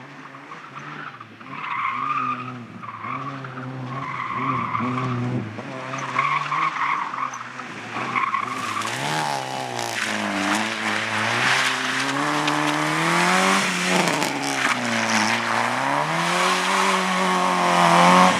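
Slalom car's engine revving up and down as it is thrown through the course, tyres squealing in the turns. It grows much louder about halfway through as the car comes close, then cuts off abruptly at the end.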